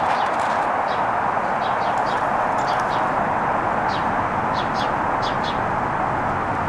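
Small birds chirping: short, high chirps come several times a second over a steady hiss.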